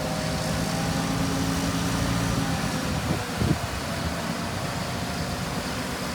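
Diesel engine of heavy earthmoving machinery running steadily, with two short knocks a little after three seconds in.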